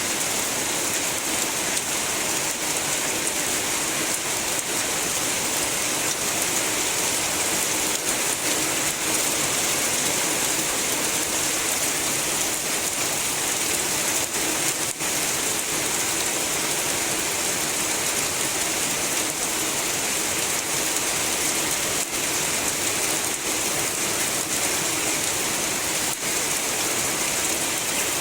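Heavy rain falling steadily, an even hiss with a scatter of faint drop ticks.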